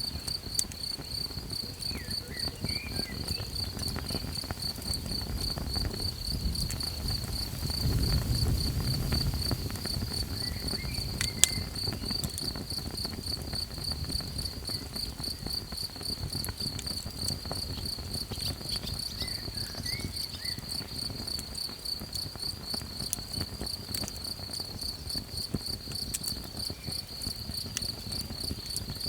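Crickets chirping in a steady, fast pulsing trill, over a campfire crackling with scattered small clicks. A low rumble swells around eight seconds in, and a sharp pop, the loudest sound, comes about eleven seconds in.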